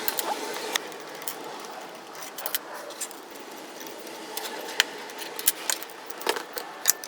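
Irregular small metal clicks and scrapes of a screwdriver turning the bolts and nuts that hold the motor in a fan housing, with a few sharper clicks near the end.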